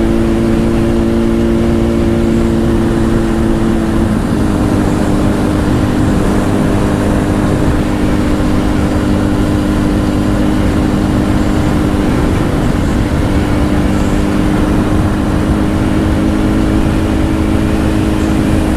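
Honda CBR1000's inline-four engine through a Two Brothers exhaust, running at a steady speed, heard from a helmet-mounted mic with wind noise. Its pitch drops about four seconds in, as at an upshift, and holds steady after that.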